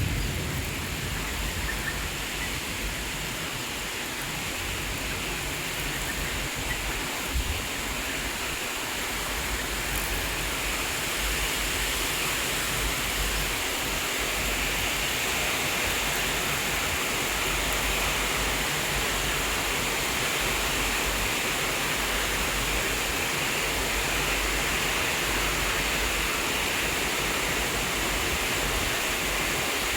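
Rain pouring steadily, a continuous hiss that grows a little louder from about ten seconds in.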